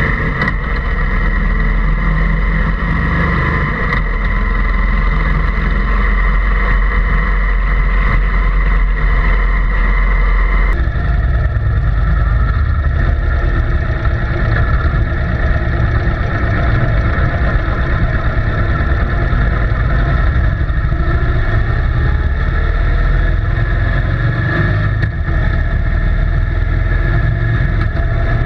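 A vehicle engine running steadily with a low rumble; its tone changes abruptly about eleven seconds in.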